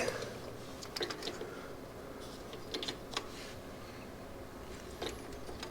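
A few faint, light clicks and taps of small parts being handled, scattered among quiet background hum.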